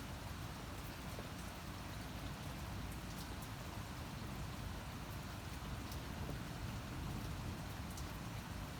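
Steady rain falling: an even hiss with occasional sharp drop ticks.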